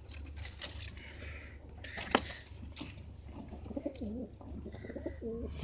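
Domestic pigeons cooing in a loft, in wavering low calls that come more often in the second half, with one sharp click about two seconds in over a steady low hum.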